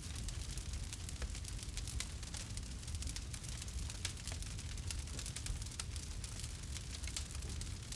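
Campfire burning and crackling, with many small pops and snaps over a steady low rumble of the flames.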